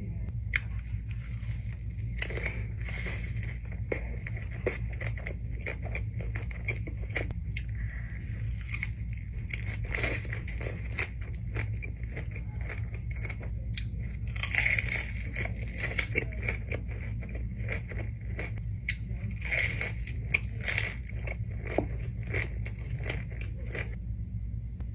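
Close-miked eating: irregular crunchy bites and chewing, with crackling clicks scattered throughout, over a steady low hum.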